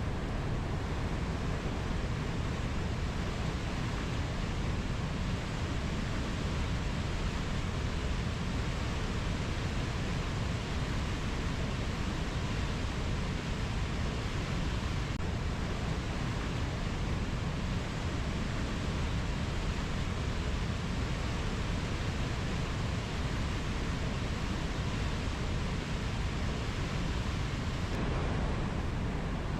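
Steady, even rushing noise with a deep low end and no separate calls or knocks.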